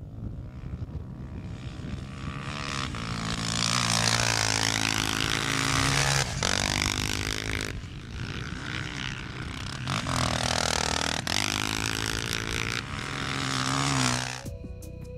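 Off-road motorcycle engines revving as the bikes ride past, the engine note rising and falling in pitch and swelling loud twice.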